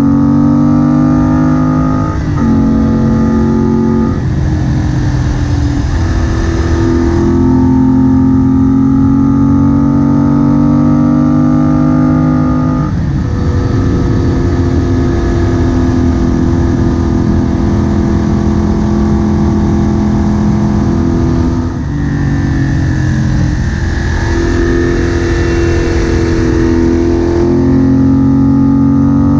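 Moto Guzzi Bellagio's air-cooled transverse V-twin running under way, heard from the rider's seat. The engine note climbs and falls with the throttle and breaks off abruptly three times, about two, thirteen and twenty-two seconds in. Wind rushes over the microphone.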